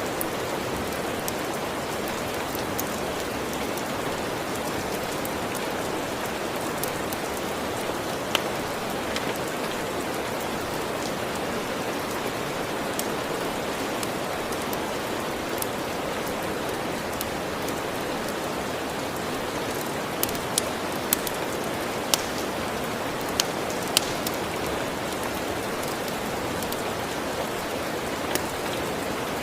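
Steady rain falling. A few sharp ticks stand out over it, one about eight seconds in and several close together about twenty seconds in.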